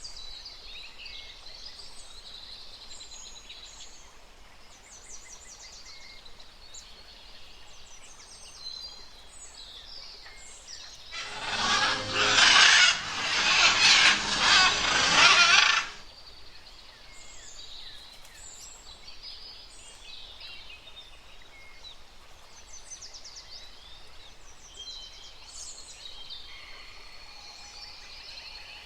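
Many birds chirping and trilling in quick, high calls throughout. About eleven seconds in, a loud, harsh, rasping burst lasting about four seconds drowns them out, then the chirping carries on.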